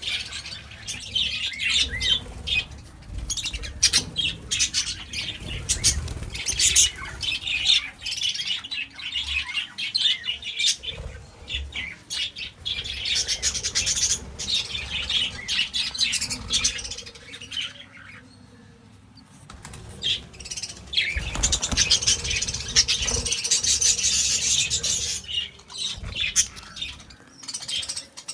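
A colony of budgerigars and lovebirds chattering, chirping and squawking nonstop, with bursts of wing flapping. The chatter dips briefly about two-thirds of the way through, then picks up again.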